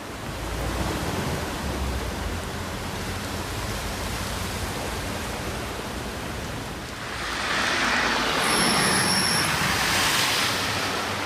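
Steady rushing noise of typhoon wind and rain, growing louder about seven seconds in, with a brief thin high-pitched tone lasting about a second.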